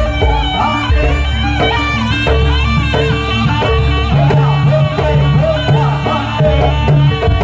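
Live East Javanese jaranan accompaniment music: a reed pipe plays a wavering, ornamented melody over drums, repeated gong-like notes and a steady low drone.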